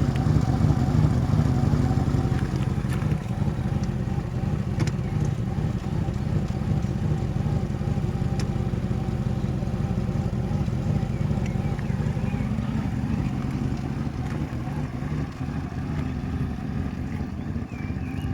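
1996 Lincoln Continental's 4.6-litre V8 engine idling steadily, with an even low exhaust pulse and no change in speed.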